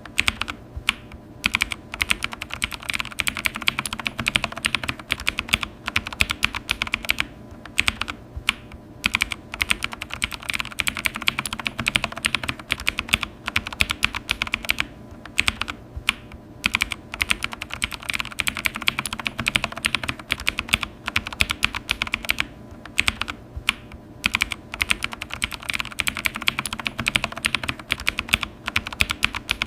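Typing on a computer keyboard: a rapid, continuous run of key clicks with a few short pauses between bursts.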